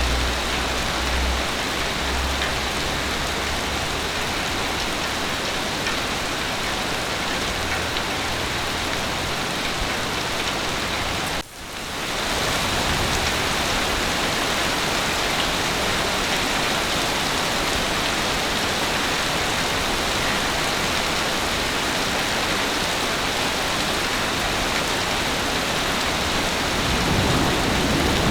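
Heavy rain falling steadily, a dense even hiss that drops out for a moment about eleven seconds in. A low rumble of thunder starts to build near the end.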